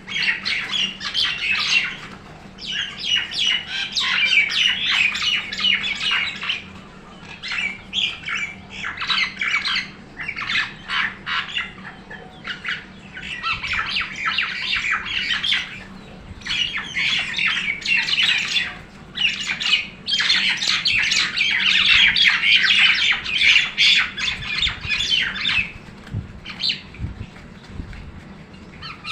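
Birds fighting, squawking harshly in rapid, continuous bouts of several seconds each, separated by brief lulls.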